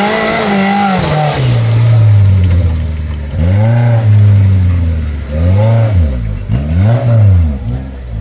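Off-road vehicle engine revving hard, its pitch climbing and dropping again several times in quick succession, most often in the second half.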